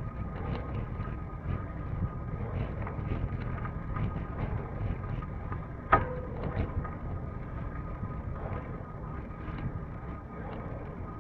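Steady rumbling ride noise with wind on the microphone and many small rattles, broken by one sharp clank with a brief ringing tone about six seconds in.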